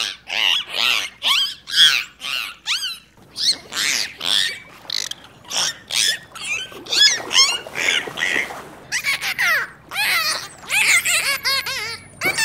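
Pigs squealing: a dense run of short, high-pitched squeals, about two or three a second, overlapping one another.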